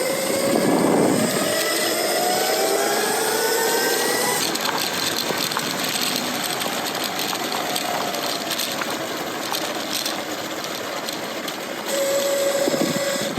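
Electric motor of a Lightning Rods e-bike drive whining, its pitch rising steadily as the bike speeds up over the first four seconds or so. After that it gives way to steady rushing wind and road noise while the bike cruises, with a steady whine coming back near the end.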